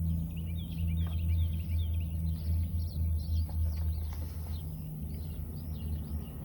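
Birds chirping in quick repeated short notes over a low, steady mechanical hum.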